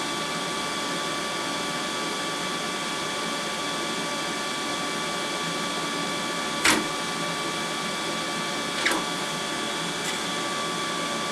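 A steady whir of a small motor with a few fixed tones, broken by two sharp clicks, one about two-thirds of the way in and one a couple of seconds later.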